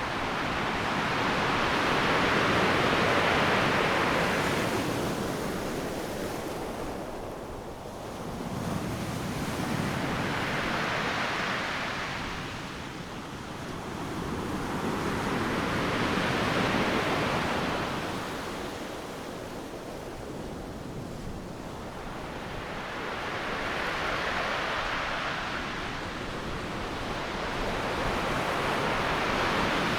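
Ocean waves breaking on a beach: a steady rushing hiss that swells and fades with each wave, about one every six to eight seconds.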